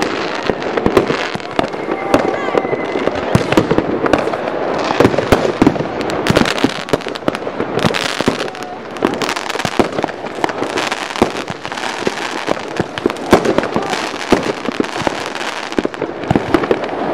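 A dense barrage of fireworks: sharp bangs and crackles following one another irregularly and without a break.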